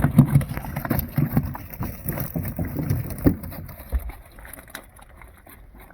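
Irregular knocks and thumps in a small fishing boat as a net and its catch are handled, with light splashing. They are densest in the first three seconds, with a sharp knock near the end of that stretch, then the sound fades to a faint wash.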